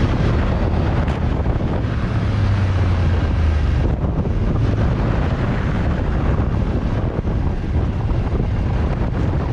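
Wind rushing over the microphone of a moving motorcycle, with the bike's engine running low underneath, its hum a little stronger for a second or so about two seconds in.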